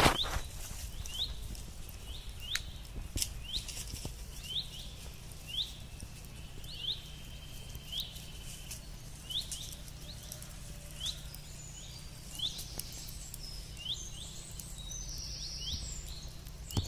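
A bird repeats a short, high, hooked chirp about once a second, over the crackle and occasional sharp pops of a wood campfire. A steady low hum runs underneath.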